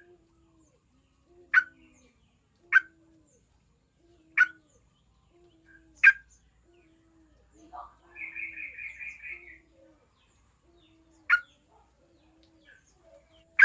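Yellow-vented bulbul (trucukan) calling: short, sharp call notes repeated every second or two, with a fast chattering run of notes about eight seconds in. A faint low note repeats steadily underneath.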